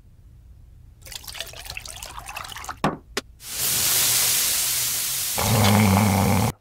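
Rustling and scuffing noises, then a loud steady rushing hiss like water that starts about halfway through. Near the end a low hum joins in, and everything cuts off suddenly.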